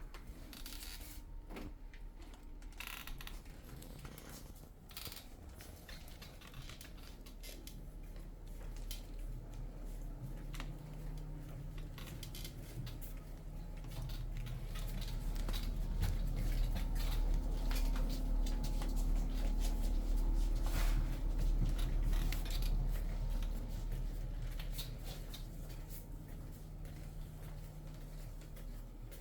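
Pet stroller rolling, its wheels rumbling with light rattling clicks. A low steady hum swells about halfway through and fades again near the end.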